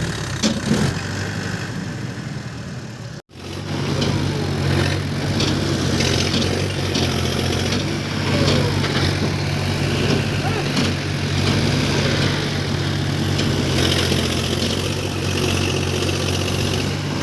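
Tractor diesel engine running steadily at a constant speed. The sound cuts out for an instant about three seconds in, and after that the steady engine hum is plainer.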